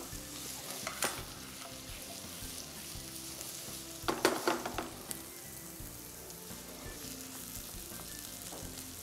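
Chopped onion and capsicum sizzling in hot oil in a frying pan as they are sautéed briefly to stay crunchy, with a spatula stirring in the pan. There is a short clatter a little after four seconds in.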